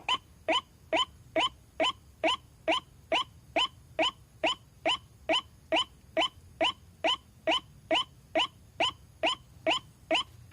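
White-breasted waterhen (ruak-ruak) giving its monotonous kwak call, one short note repeated evenly about twice a second.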